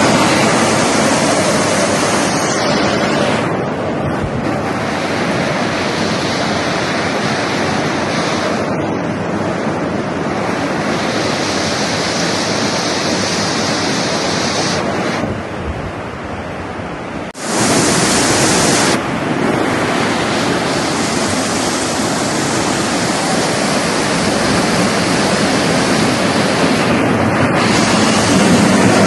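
Heavy rain pouring down, a loud, dense hiss of water, changing abruptly several times.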